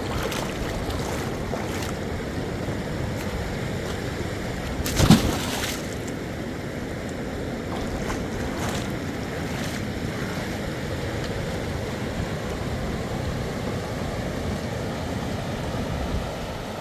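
Steady rush of flowing water, a mountain river or stream, with one short thump about five seconds in.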